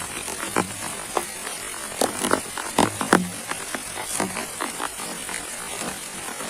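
Water drops falling irregularly onto a tarp or shelter, a scatter of sharp taps, over a steady high-pitched buzzing hiss.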